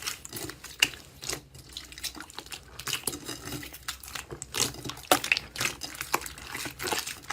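Slime being squeezed and kneaded by hand, making irregular wet clicks, pops and squelches.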